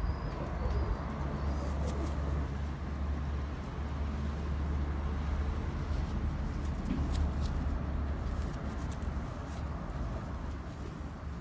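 Domestic pigeons cooing over a steady low rumble, with a few light clicks.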